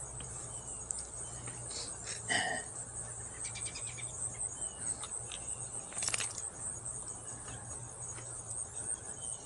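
Steady high-pitched chorus of insects, with a few faint bird chirps and some brief clinks and rustles.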